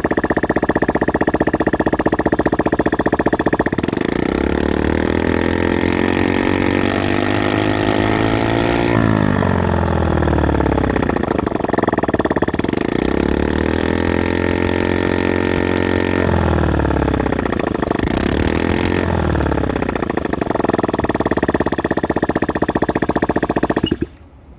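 Small moped engine running with its muffler removed, exhaust open straight from the port, very loud. It idles, is revved up and back down several times, then settles to idle and cuts off suddenly near the end.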